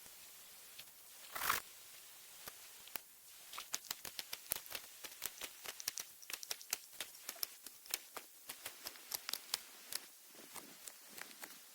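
Knife whittling a wooden stick. One louder scrape about a second and a half in is followed by a run of quick, sharp cuts, several a second, that stop near the end.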